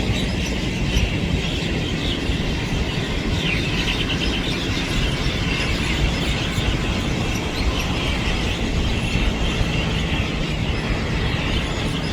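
Faint bird chirps over a loud, steady low rumble, with the chirps clearest about three seconds in.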